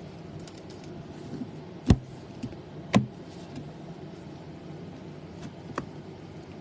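Trading cards being handled and set down on a table while being sleeved: two sharp taps about a second apart, a lighter tap near the end, and faint clicks, over a steady background hum.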